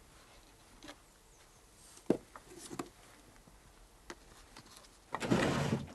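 Quiet room tone with a few light knocks, then about a second of rough handling noise near the end.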